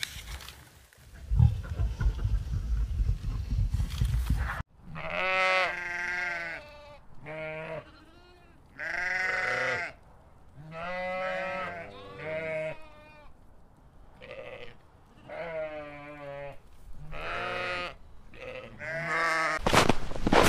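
Domestic sheep bleating: about ten separate bleats, several sheep calling in turn. The bleating follows a low rumble at the start and gives way to a burst of noise near the end.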